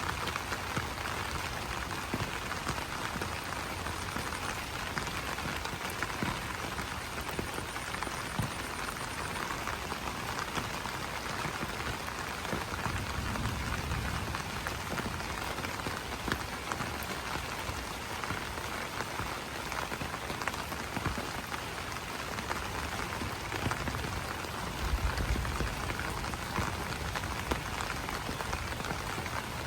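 Steady rain pattering on broad banana leaves, a dense hiss of many small drop ticks. A low rumble swells briefly twice, about halfway through and near the end.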